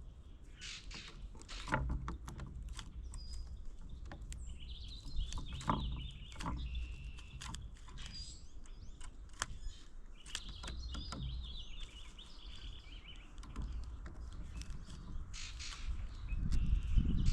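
Songbirds calling around a backyard feeder: many short, sharp chips, with two longer, harsh, warbling calls. Under them is a low rumble that grows louder near the end.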